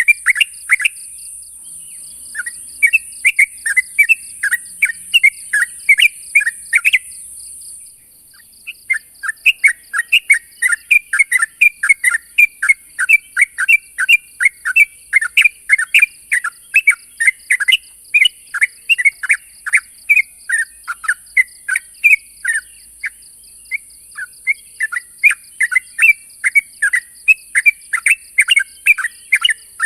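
Yellow-vented bulbul (trucuk) calling: quick bubbling, chattering phrases of many short notes, repeated with brief pauses, over a steady high hiss. This is the challenge call used to provoke rival males into answering.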